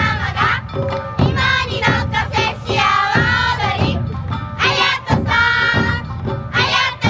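Awa Odori festival music played live by a dance troupe's band: drums struck in a steady beat under group voices singing.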